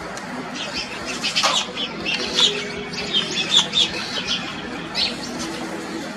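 Small birds chirping, with many short, high chirps at irregular intervals.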